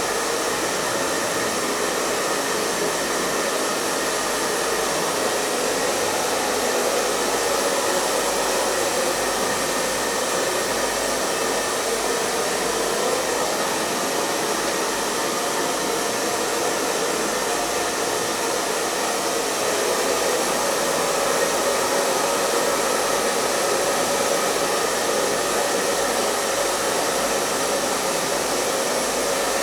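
Hair dryer running continuously at a steady speed: an even, unbroken blowing hiss with a faint motor hum.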